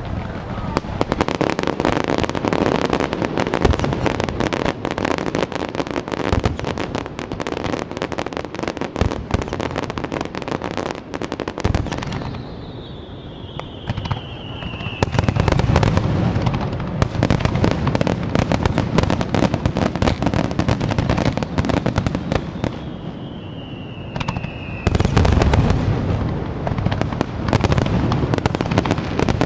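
Fireworks display: a dense run of crackling and popping shell bursts. Twice a falling whistle is followed by a heavy boom, about halfway through and again near the end.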